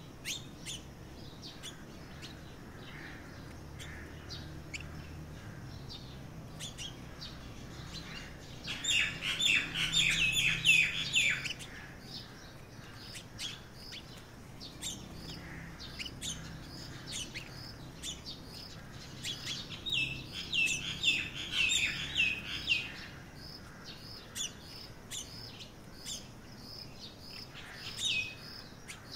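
Songbirds chirping outdoors, with a steady run of short, high repeated notes. Two louder stretches of rapid chirping come about nine seconds in and again about twenty seconds in.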